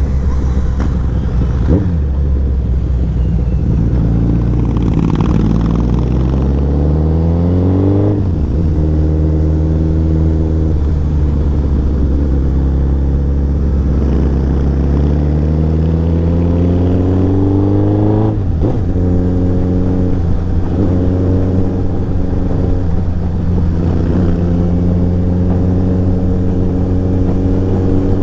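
Royal Enfield Interceptor 650's parallel-twin engine with an aftermarket exhaust, pulling under load while riding. It rises in pitch for several seconds, holds steady, breaks off sharply about 18 seconds in, as at a gear change, and then pulls again.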